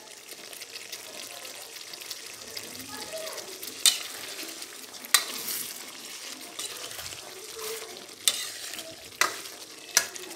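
Chicken karahi masala sizzling as it fries in its released oil in a steel kadai, stirred with a perforated metal skimmer that clinks sharply against the pan five times.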